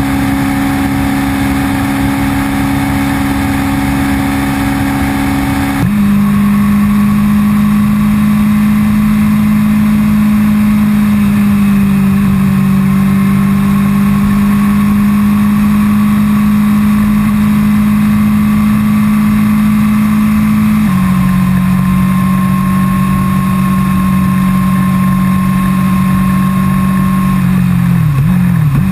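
Honda CBR600RR's inline-four engine running at a steady cruising speed. Its note drops suddenly about six seconds in and again about twenty-one seconds in, as it shifts up a gear, with a brief dip just before the end.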